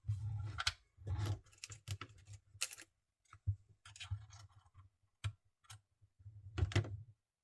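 Mini electric sewing machine stitching in short stop-start bursts, its motor humming and the mechanism clicking, with separate sharp clicks in between.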